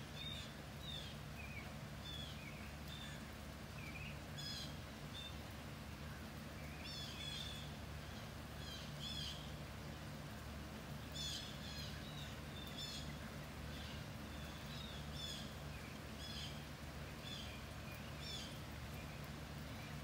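Small songbirds chirping and calling in a steady string of short, high notes, over a constant low hum.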